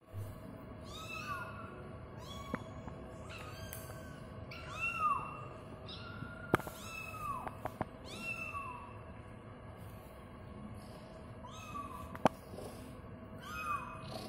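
Kitten meowing over and over, about ten short high-pitched mewing calls a second or so apart. A few sharp clicks fall between the calls.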